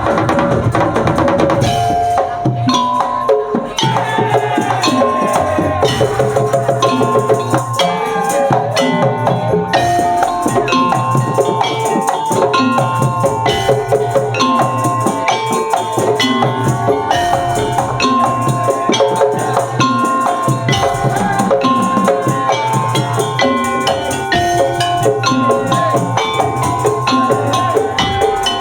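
Madurese tongtong (daul) ensemble playing a busy rhythm on wooden slit drums and drums, with a melodic line of held high notes over the beat.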